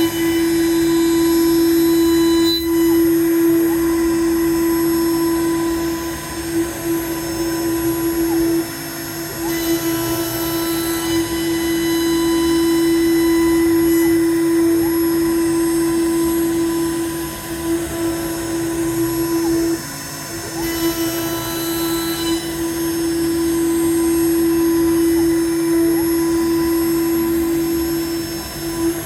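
PrintNC CNC router's spindle running a 25 mm three-flute face mill with PCD inserts, taking a light 0.1 mm face-milling pass. It makes a steady machine hum with one strong held tone, which dips briefly a few times along the way.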